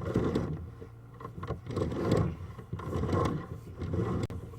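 Drain inspection camera being pushed along inside a sewer pipe, its head and push rod rumbling and scraping against the pipe wall in uneven pushes.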